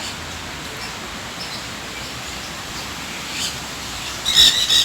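Birds calling over a steady outdoor background hiss: a short high call about three and a half seconds in, then a louder, shrill squawk near the end.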